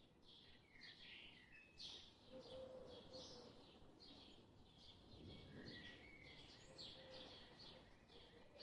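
Faint birdsong: a quick, continuous run of short high chirps with a few longer whistled notes.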